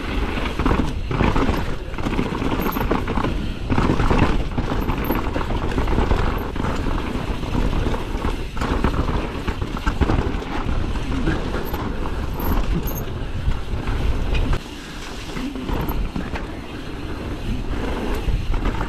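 Mountain bike descending a wet downhill trail at speed: steady wind rush on the microphone with tyre and drivetrain noise, and the bike knocking and rattling over bumps. It eases off somewhat near the end.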